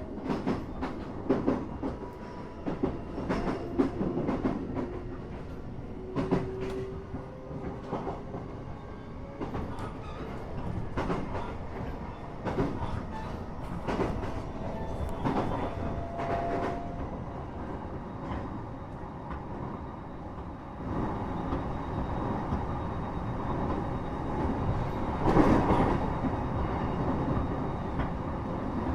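Inside a commuter train carriage: the wheels clatter over rail joints in a string of sharp clicks, with faint brief squeals, then a steadier, louder running rumble from about two-thirds of the way in, with one heavy knock.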